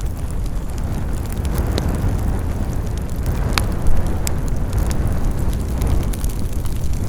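Campfire burning: a steady low rush with sharp crackles and pops scattered irregularly throughout, the loudest pop about halfway through.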